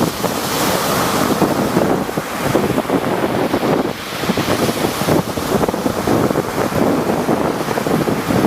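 Rough sea surf, waves breaking and washing in a continuous rush that swells and eases, with wind buffeting the microphone.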